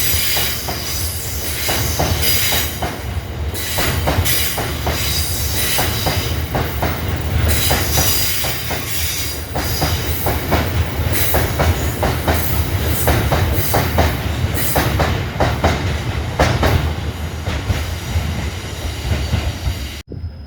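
A train running past close by: a low rumble of wheels on rail with many irregular clicks and clacks over rail joints and a thin high squeal of wheels on rail, cutting off suddenly near the end.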